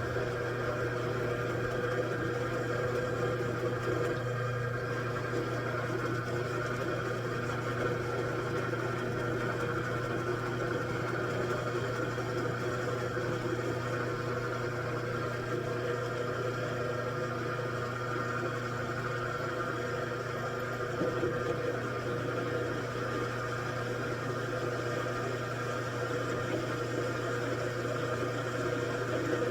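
Machine tool running steadily: a constant motor hum with steady higher tones and no change in pitch.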